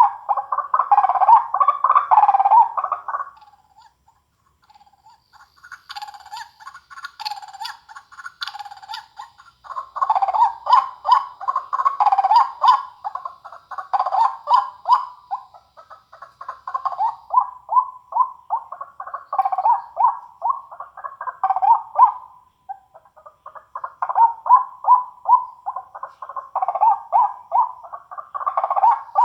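Recorded animal calls, most likely bird calls, played back through a small amplifier and speaker for a sound test. They come as bursts of quick repeated chirping notes, with a short lull about four seconds in.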